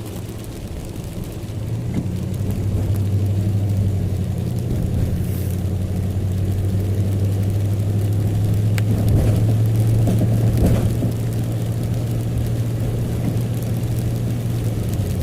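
Engine and road noise of a converted work van, heard from inside the cab while driving: a steady low hum that grows louder over the first few seconds as it pulls away, then holds steady.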